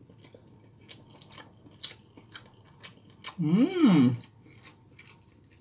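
A person chewing a mouthful of rice and pork, with small wet mouth clicks throughout. About three and a half seconds in comes a hummed 'mmm' of approval, its pitch rising and then falling.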